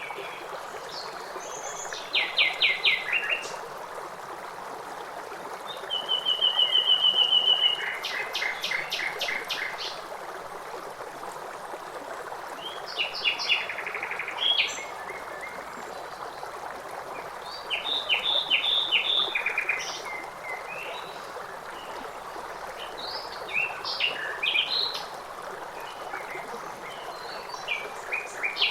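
Songbirds singing and calling over a steadily running stream, with a high trill about six seconds in and several quick runs of repeated notes.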